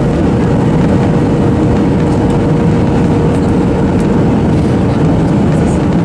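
Boeing 737-800 cabin noise: a steady, loud rumble of the jet engines and airflow, with a thin constant whine running through it.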